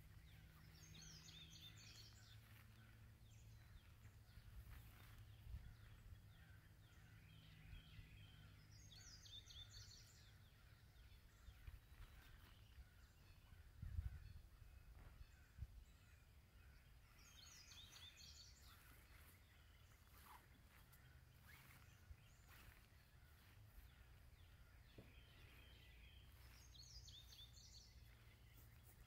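Faint outdoor ambience with a low steady rumble. A songbird sings a short, high phrase four times, roughly every eight or nine seconds. A single soft bump comes about halfway through.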